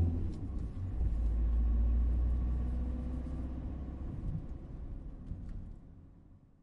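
Car engine running, a low rumble that swells about a second in and then gradually fades out.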